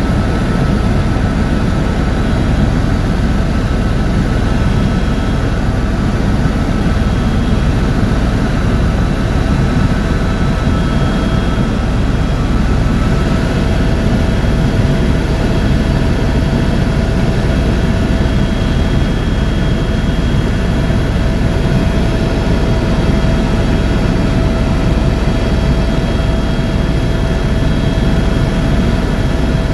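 Tour helicopter in flight, heard from inside the cabin: a steady low engine-and-rotor drone with a few held whining tones over it.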